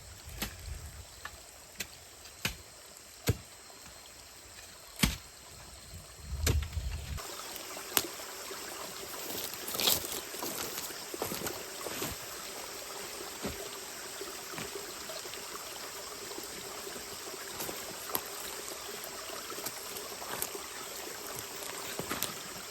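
A digging tool striking hard, stony ground in repeated sharp knocks, about one a second at first and sparser later. About seven seconds in, a steady hiss rises underneath.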